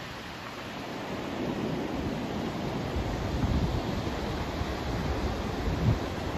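Steady rushing noise from a white-noise sleep track, swelling and ebbing, with a deeper rumble coming in about three seconds in.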